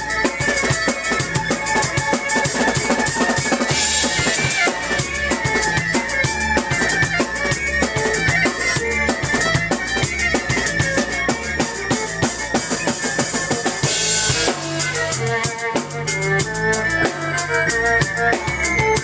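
Live electronic-rock band of violin, drum kit and keyboard playing a fast dance beat: bass drum and snare driving the rhythm under a keyboard bass line and held violin notes, with a cymbal wash about four seconds in and again later.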